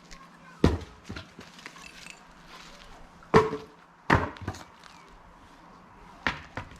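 An axe splitting firewood: a series of sharp chopping blows into a log, about six in all, with the loudest a little past the middle.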